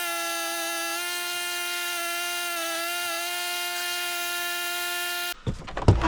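A small electric motor on the tractor whining steadily at one pitch, with a slight dip in the middle, then cutting off suddenly about five seconds in.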